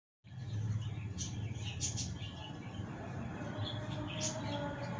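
Pet birds chirping: a few short, high chirps over a steady low background rumble.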